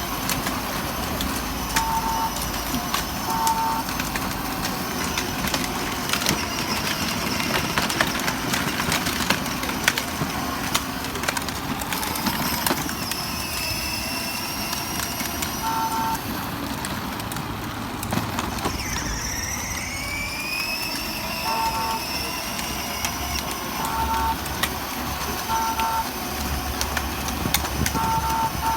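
Short electronic horn beeps, sounded in quick pairs several times, over steady outdoor vehicle noise. About two-thirds of the way through, a rising whine passes.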